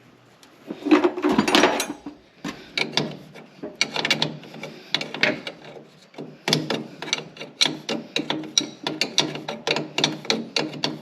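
Hand ratchet clicking in quick, repeated short strokes as a line fitting on the newly installed turbo is tightened, with a brief louder scrape of metal parts about a second in.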